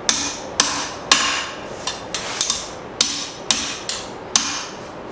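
Blacksmith's hand hammer striking steel stock on an anvil, about nine blows at an uneven pace roughly every half second, each with a short ring, as the bracket is bent and straightened.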